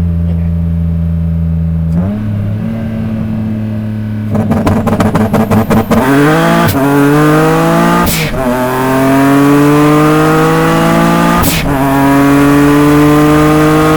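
Single-turbo Nissan 350Z's V6 under hard acceleration. It idles and holds steady revs, stutters rapidly for about two seconds, then climbs in pitch through the gears. Two upshifts, about eight and eleven and a half seconds in, each come with a short sharp burst of noise.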